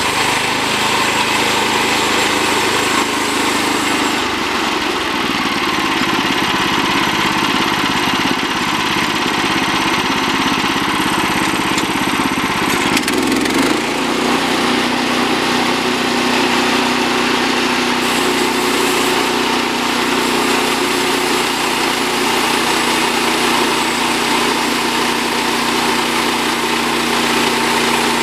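Portable bandsaw sawmill's gasoline engine running at speed as the band blade saws through a log. About halfway through, the engine note changes and settles to a steadier pitch.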